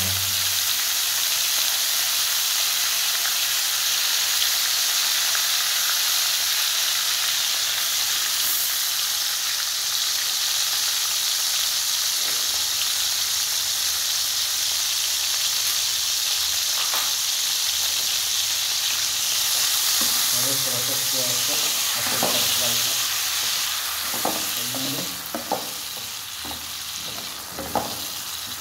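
Onion, green chilli and ginger paste frying in hot oil in a wok: a steady, loud sizzle. In the last few seconds a spatula stirs it, with two sharp knocks against the pan, and the sizzle eases a little.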